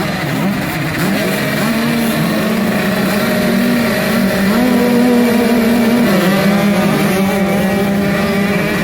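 Motocross dirt bikes racing, engines revving up and down with the throttle, their pitch rising and falling throughout.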